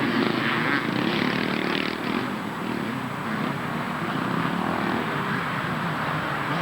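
Several 250 cc two-stroke motocross bikes racing, their engines revving together with pitches wavering up and down.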